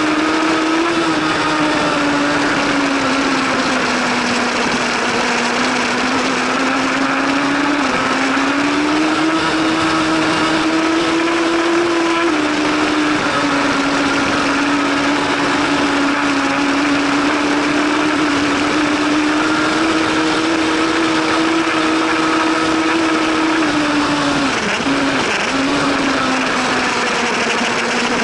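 A 1000 cc superbike racing engine held at high revs, its pitch rising and falling slowly as the bike accelerates and eases off, with a sudden drop about halfway through and a brief dip near the end, over a constant rushing noise.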